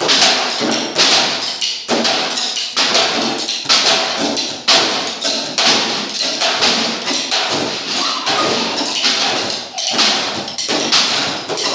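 A group of people playing percussion together, with loud, repeated overlapping strokes a few times a second.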